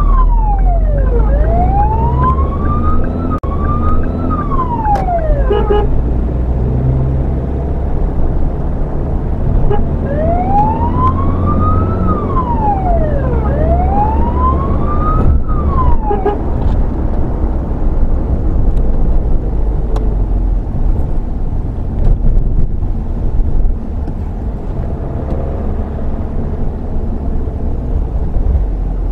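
Emergency vehicle's wail siren, sweeping up and down in pitch, heard from inside the vehicle. It sounds for the first five or so seconds, pauses, sounds again from about ten to sixteen seconds in, then stops. The vehicle's low engine and road rumble runs underneath throughout.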